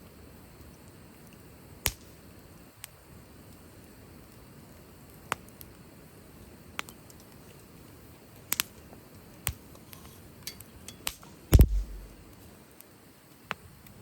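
Wood fire crackling: sharp pops and snaps at irregular intervals. About three-quarters of the way through comes one heavier, louder knock with a low thud.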